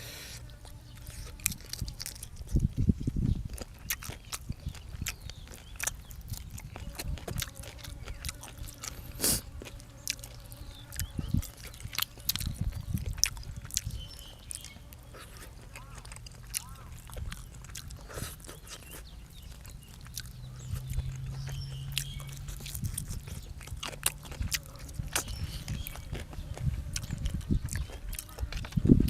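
Close-up eating sounds: chewing and biting, with many scattered sharp clicks and smacks of food and utensils.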